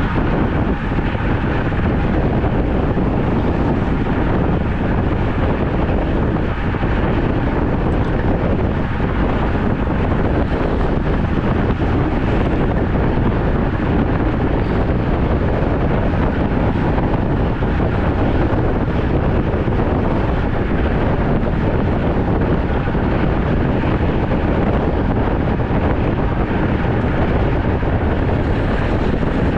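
Steady, loud wind rushing over the microphone of a rider on a road bicycle.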